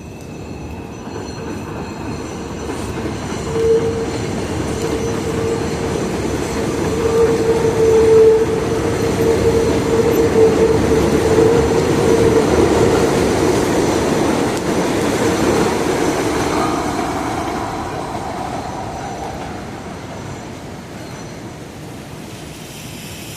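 New York City subway train on the 2 or 5 line running through the station, growing louder over several seconds and then fading away, with a steady high tone held for about ten seconds in the middle.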